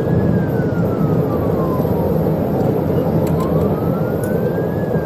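Police siren on a slow wail, falling, rising and falling again, over a loud, steady road and engine rumble from a patrol car at pursuit speed.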